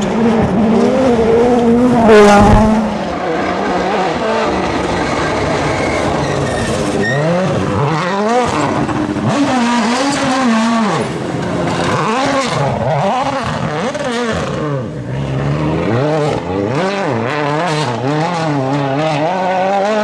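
Rally car engine at full stage pace, revs climbing and dropping repeatedly through gear changes and lifts. A single sharp loud bang about two seconds in.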